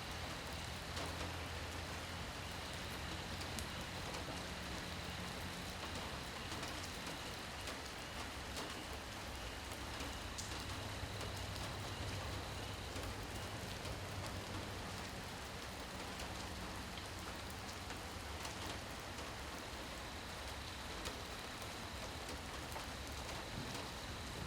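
Steady rain falling at night, an even hiss with many small drop ticks. A low steady rumble runs underneath, with a faint thin high tone held throughout.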